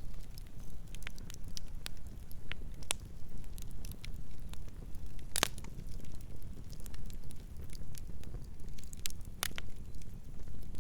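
Campfire burning with a steady low rumble of flames and irregular sharp crackles and pops of the wood, one louder pop about halfway through and another near the end.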